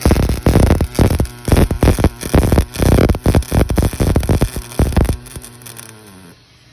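MIG welding arc crackling in irregular bursts over a steady electrical hum, stopping about five seconds in, followed by a falling tone as it winds down.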